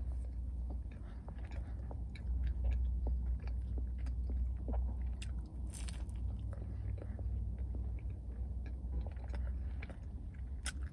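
Close-up biting and chewing of a warmed, flaky baked apple croissant, with small crackling crunches scattered throughout. A steady low hum runs underneath.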